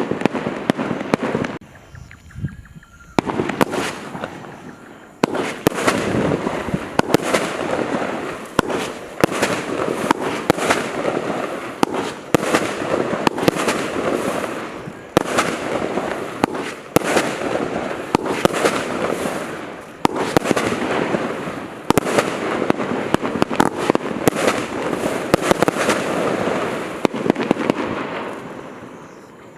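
Consumer firework barrage cake firing: a rapid string of sharp shot reports and bursts running close together, with a short lull about two seconds in. It then fires steadily and tails off near the end.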